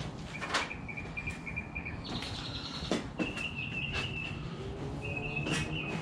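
A songbird trilling three times, each a quick run of high notes on one pitch lasting about a second. A few light metallic clicks and knocks from hand tools come in between.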